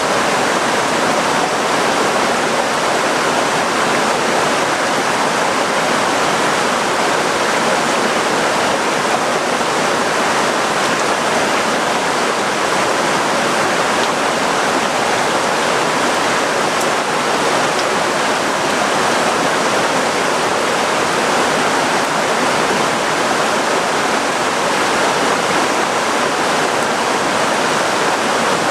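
Heavy rain pouring down, a loud, even hiss of water that does not let up.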